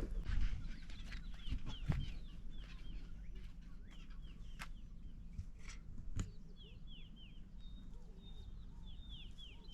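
Small birds chirping: short, falling chirps repeated in quick twos and threes, with a few faint knocks.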